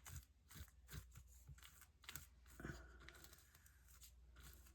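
Near silence, with faint scattered rustles and light taps of paper and craft materials being handled.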